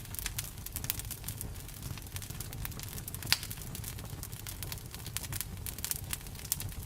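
Wood campfire crackling with irregular small pops over a steady low rumble of the flames, and one sharper, louder pop about halfway through.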